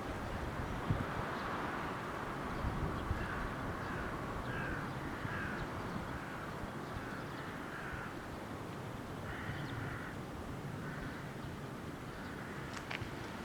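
A crow cawing, a string of short calls spread over several seconds, over steady outdoor background noise.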